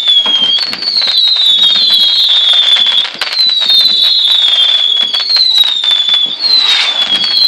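Fireworks going off in quick succession: a string of overlapping whistles, each falling slightly in pitch over about a second, over constant crackling and popping.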